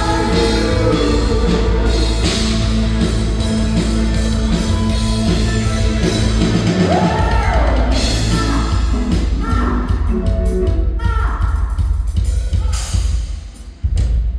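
A live rock band playing with drum kit and singing. The music fades about thirteen seconds in, then one last short loud burst comes just before the end.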